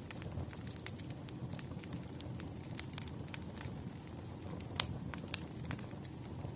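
Wood fire crackling: a steady low rumble of burning under irregular sharp pops and snaps, one of them louder a little before five seconds in.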